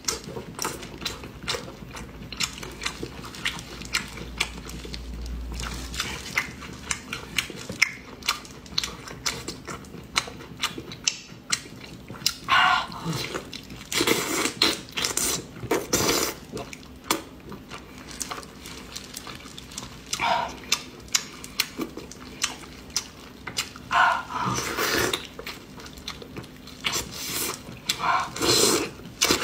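Close-up eating sounds of a mouthful of soft, fatty braised pork belly being chewed: a constant patter of small wet clicks and smacks, with louder wet slurping mouth sounds every few seconds.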